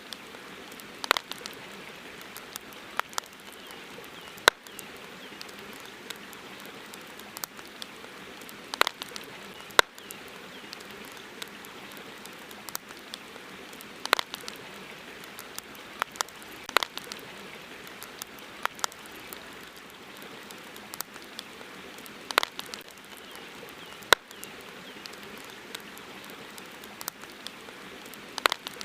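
Campfire crackling: irregular sharp pops and snaps, a few of them louder, over a steady hiss.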